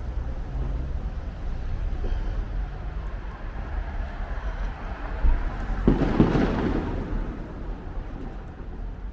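Distant fireworks booming over a steady low rumble, with one louder, rolling boom about six seconds in that lasts around a second.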